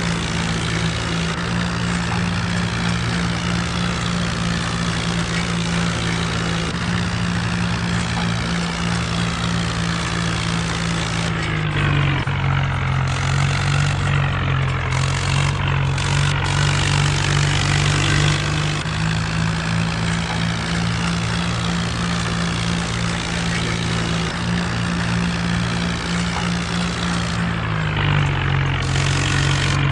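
Mahindra Arjun tractor's diesel engine running steadily and loudly, its pitch dipping a little about twelve seconds in, rising again around nineteen seconds, and dipping again near the end.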